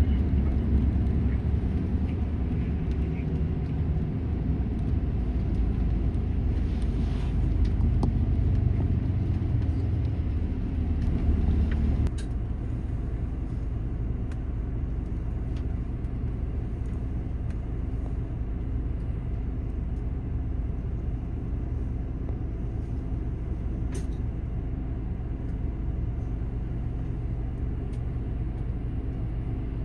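Airport apron bus's engine and road noise heard from inside the cabin, a steady low rumble that drops to a quieter, even hum about twelve seconds in.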